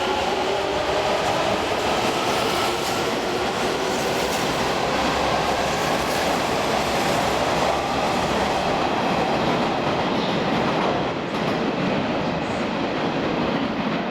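Hanshin 1000 series electric train pulling out, its motors whining faintly at first before the sound becomes a steady rush of wheels running on rail as the eight cars go by.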